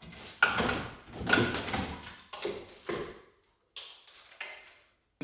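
Plastic car trim being pulled off: a series of sudden scrapes, knocks and pops as the clips let go and the plastic panel is handled.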